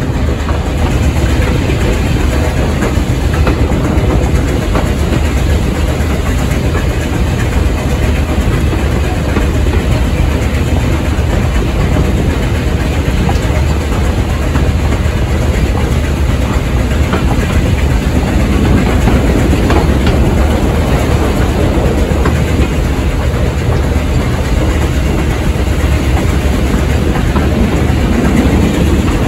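Heritage railway train running along the track, a steady rumble of wheels on rails with a clickety-clack.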